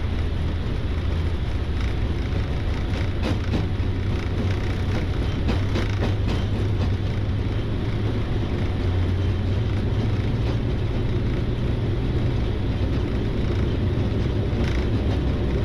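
Boeing 777-300ER at takeoff thrust, heard inside the cockpit while rolling down the runway: a steady loud rumble of engines, airflow and wheels, with a few light knocks.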